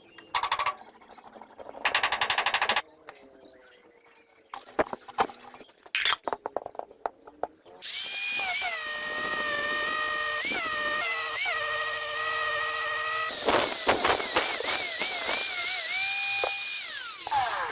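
Handheld electric power tool, a drill or grinder, in a few short bursts, then running steadily at high speed with a whine that dips in pitch several times as it is pressed against the work, and winding down near the end.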